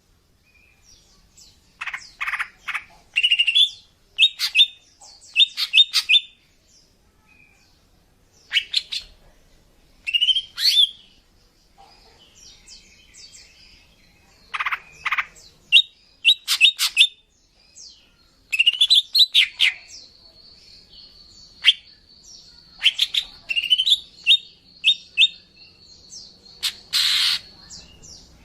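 Female green leafbird (cucak ijo) calling: bursts of quick, sharp chirps in short rapid series with pauses between them, and a thin steady whistle held for several seconds in the second half.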